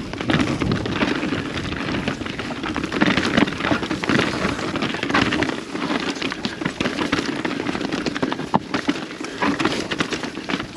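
Mountain bike rolling downhill on a rough trail: tyres crackling and rattling over snow and dirt, with a steady rush of noise and many small clicks.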